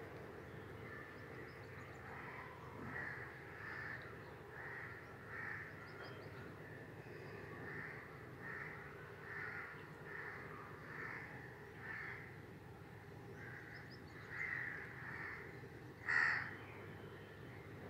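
A bird calling over and over outdoors, short calls about once a second, with one much louder call near the end, over a low steady background hum.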